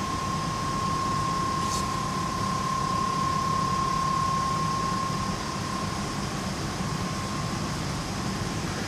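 Steady rushing hum of large ventilation fans, with a thin steady whine that fades out about six seconds in.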